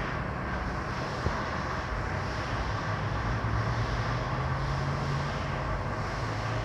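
D&S IQ touchless automatic car wash running through a wash cycle: a steady mechanical hum under a broad hiss of spray, with a small click about a second in.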